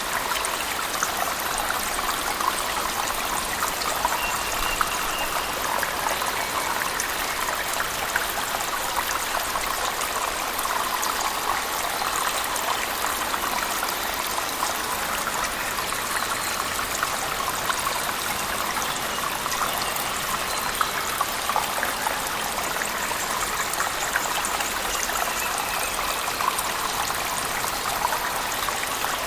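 Cave waterfall and heavy rain: a steady rush of falling water with a dense patter of small splashes and drips.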